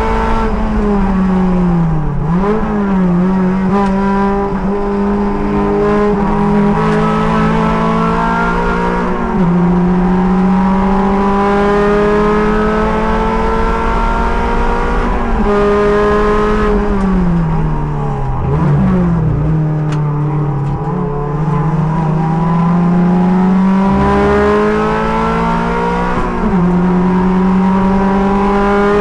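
Race car engine heard from inside the cockpit, driven hard around a track. Its pitch climbs slowly on the straights and drops sharply at each upshift, and twice it falls away under braking with short throttle blips on the downshifts.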